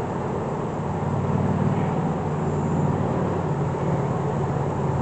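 Honeybees from an open hive buzzing close to the microphone: a steady, low hum.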